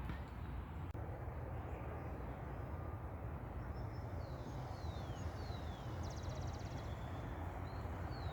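Steady outdoor background noise with a low rumble. A small bird calls faintly: a few descending whistles about halfway through, then a short rapid trill.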